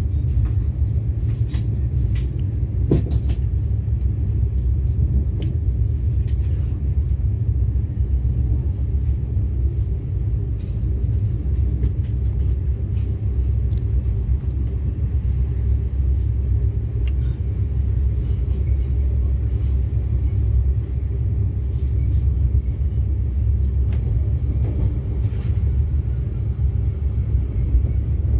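Steady low rumble of a moving vehicle, with faint clicks and rattles over it.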